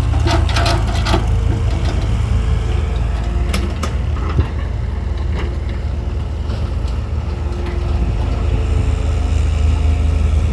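Heavy diesel engine running steadily at a low, even speed. Bursts of clattering come in the first second and again around three and a half seconds in, and a single thump follows at about four and a half seconds.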